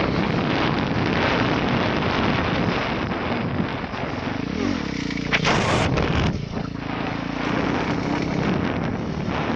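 Motorcycle engine running on the move, with heavy wind noise on the microphone. A short, high-pitched rising squeal cuts through just after halfway.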